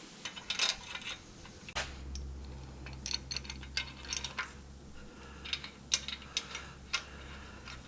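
Light metallic clinks and taps, a dozen or so scattered and irregular, as Toyota 22R engine parts are handled and set in place during crankshaft main-bearing assembly.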